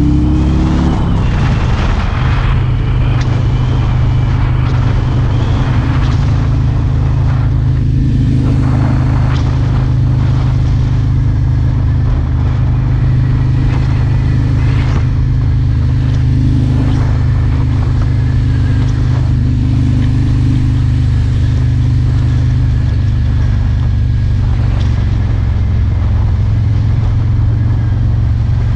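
Harley-Davidson Road King's V-twin engine running under way at a steady cruising speed, with wind and road noise. Its pitch falls in the first second, then holds steady.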